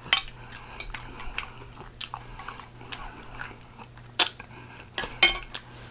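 Close-miked chewing of sticky pig feet: wet mouth smacks and clicks, with a few sharper, louder clicks about four and five seconds in.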